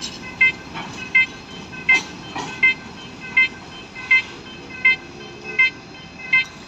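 Railway level-crossing warning signal sounding, a short electronic double-tone beep repeating steadily about every 0.7 seconds.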